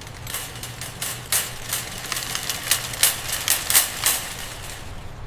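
An irregular run of sharp clicks and crunches, several a second, over a steady low hum.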